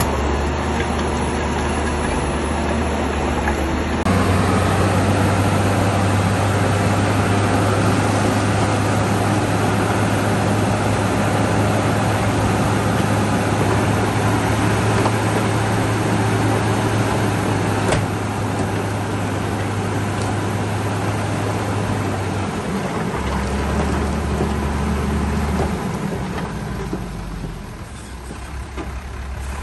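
Heavy diesel engine of a Shantui bulldozer running steadily under work. Its tone shifts abruptly about four seconds in, changes pitch again past the middle, and the level dips briefly near the end.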